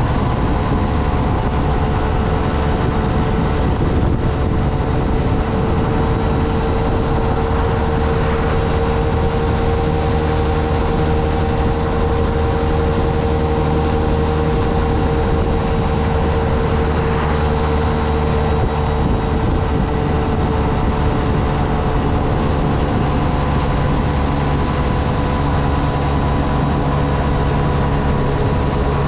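Motorcycle engine running at a steady cruise, with heavy wind rumble on the microphone. A steady whine rises slightly in pitch through the middle of the stretch, then eases back down.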